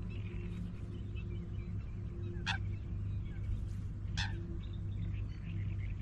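Birds chirping faintly over a steady low hum, with two short, sharp calls about two and a half and four seconds in.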